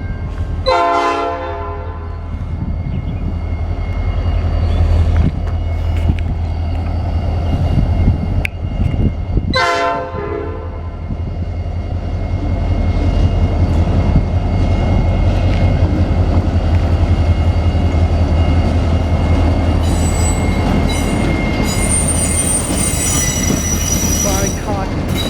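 Norfolk Southern diesel freight train passing, with a steady low engine rumble and two short horn blasts, about one second and ten seconds in. Thin, high-pitched wheel squeal rises from the rails in the last few seconds.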